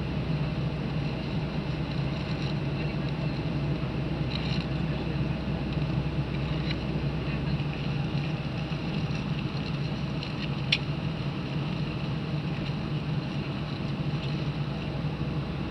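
Steady drone of a Boeing 737-800's engines and airflow heard inside the passenger cabin. The deeper rumble eases about halfway through, and there are a couple of faint clicks, with a sharper one near the end.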